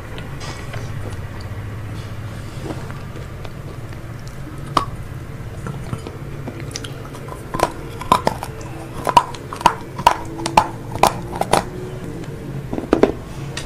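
Close-up chewing and biting of crispy fried chicken: a run of short, sharp crunches roughly twice a second in the second half, over a steady low hum.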